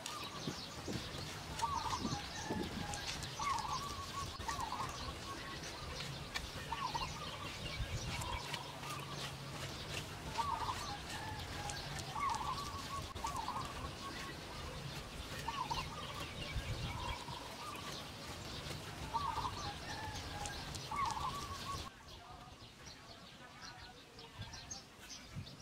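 Birds calling: one bird repeats a short two-part call every second or two over many small, high chirps from other birds. It all turns quieter for the last few seconds.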